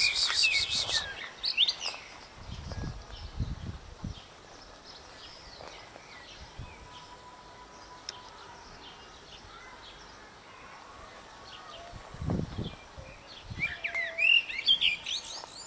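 Small birds chirping in quick high bursts, busiest at the start and again near the end, with a few low thumps in between.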